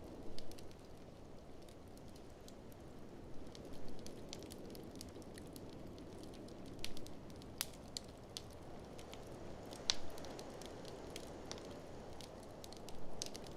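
Wood fire in a fireplace crackling, with scattered sharp pops and snaps over a steady low rush.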